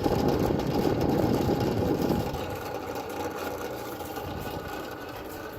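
Frigidaire Gallery wall oven's fan making a terrible grinding noise while the oven runs a self-clean cycle: the fan is faulty but still running. The grinding is loudest for about the first two seconds, then eases to a steadier, quieter hum.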